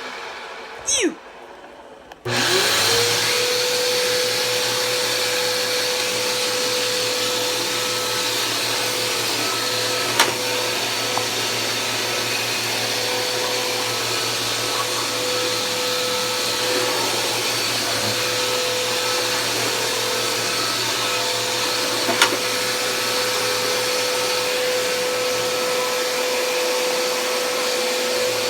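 Vacuum cleaner motor spinning down, then switched on again about two seconds in. Its whine rises and settles into a steady running hum with rushing air. Two brief clicks come along the way.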